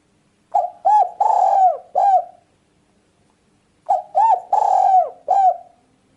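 Spotted dove (tekukur) cooing: two phrases of four low notes each, the third note of each phrase drawn out longest.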